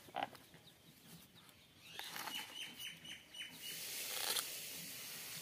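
A bird chirping in a quick run of short falling notes, about five a second, a couple of seconds in. A brief knock sounds near the start, and a short rustling hiss about four seconds in.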